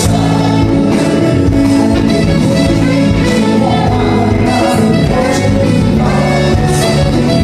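Live band playing, with a singer's voice over the instruments.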